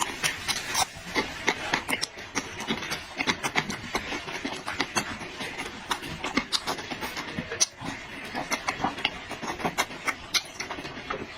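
Close-up eating sounds of a person chewing: a dense, irregular run of small wet smacks and clicks.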